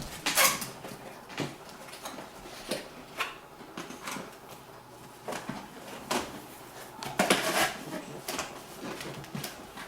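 Cardboard motherboard box being opened and its packaging handled: irregular rustles, scrapes and light knocks, the loudest about half a second in and around seven and a half seconds.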